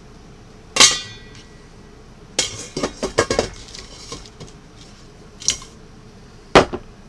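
Metal utensils clinking and clattering against cookware. A single ringing clank comes about a second in, then a run of rapid clatter, then two more sharp knocks near the end.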